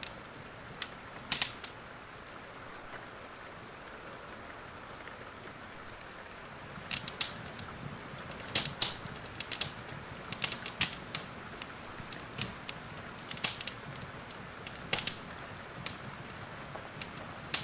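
Wood fire crackling in a fireplace, with irregular sharp pops over a steady hiss of rain. The pops are sparse at first and come thick and fast from about seven seconds in.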